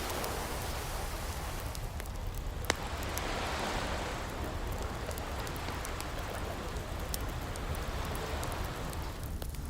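Gentle ocean waves washing in a slow swell under a crackling wood fire, with scattered small pops and one sharp, louder pop about two and a half seconds in.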